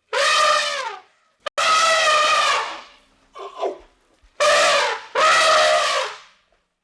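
An animal calling repeatedly: long, loud, trumpet-like calls, four strong ones and a shorter, weaker one between them, with a sharp click after the first call.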